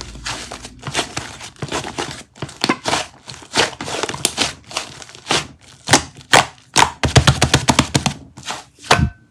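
Close-up crinkling and crackling of handled material, a quick run of small crackles that gets denser about seven seconds in, with a knock near the end.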